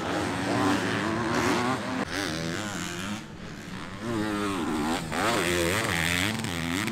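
Motocross dirt bike engines on track, revving up and down repeatedly as the riders get on and off the throttle, dropping back briefly about halfway through before rising again.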